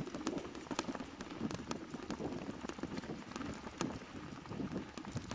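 Bicycle rolling over a rough off-road track: tyres crunching with scattered sharp clicks and rattles.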